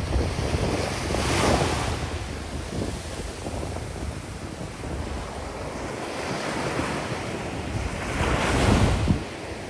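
Sea waves breaking on a sandy beach, two washes building and falling away, about a second and a half in and again near the end. Strong wind buffets the microphone with a steady low rumble throughout.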